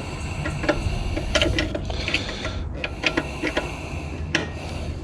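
Irregular metallic clicks, knocks and scraping as hand tools work on the jammed hinge pin and metal parts of an autoclave door. A steady low hum runs underneath.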